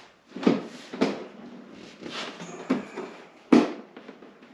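Snowmobile parts being handled and fitted together: about five separate knocks and clunks as a part is worked into place, the loudest about three and a half seconds in.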